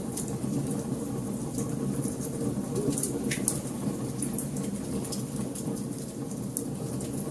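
Fire burning in a fireplace: a steady low rumble with scattered sharp crackles, one louder pop about three and a half seconds in.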